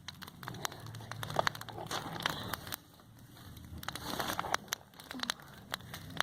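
Bonfire burning cardboard, crackling with sharp, irregular pops over a low, steady rumble from the flames.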